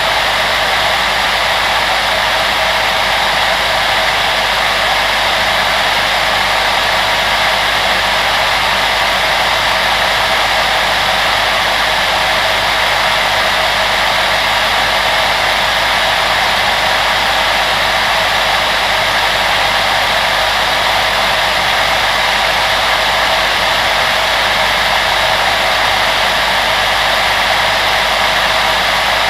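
Household electric fan appliance running steadily: a continuous airy rush of blown air with a faint low hum beneath it, unchanging throughout.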